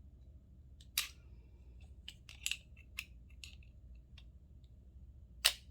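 Doorknob parts clicking and clinking as they are worked by hand to line a tab up with its slot: about eight short, sharp metal clicks, irregularly spaced, with the loudest near the end.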